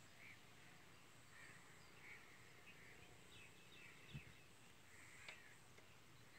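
Faint outdoor quiet with birds calling now and then, short calls and a few quick chirps, and one soft thump about four seconds in.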